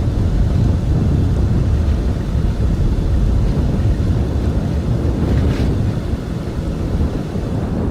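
Strong blizzard wind rumbling and buffeting against the microphone.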